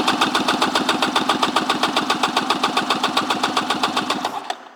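Polaris 700 two-stroke twin jet ski engine cranked over on its starter for a compression test on the PTO-side cylinder: an even, rapid chugging of about ten beats a second that winds down and stops near the end. The cylinder reads 148 PSI cold, matching the mag side's 147: even, healthy compression.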